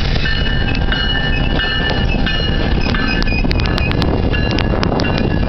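GO Transit bilevel commuter train passing close by: a steady low rumble of wheels on rail, with high thin tones over it and a run of sharp clicks from about three seconds in.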